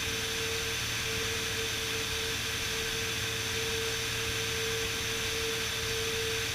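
Steady in-flight drone of a Beechcraft Bonanza S35 cabin: engine and propeller running at a constant setting with airflow hiss, a low hum and one steady mid-pitched tone, unchanging throughout.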